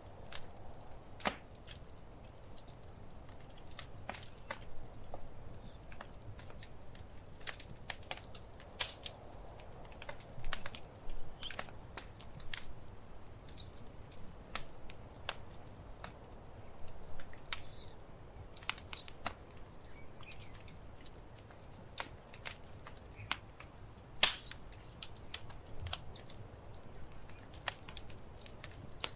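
Wood fire in a fireplace crackling: irregular sharp pops and snaps, several a second and some louder than others, over a soft low rumble of burning.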